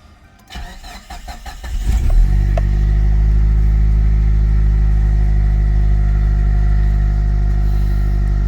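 Mitsubishi Lancer Evolution Tommi Makinen Edition's turbocharged 2.0-litre four-cylinder engine starting, catching about two seconds in, then idling steadily.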